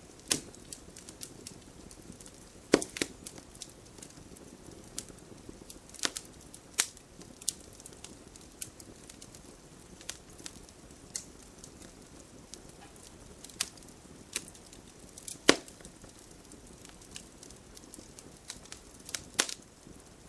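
Wood campfire crackling: irregular sharp pops and snaps over a soft steady hiss of flame. The loudest pops come about three seconds in and about fifteen seconds in.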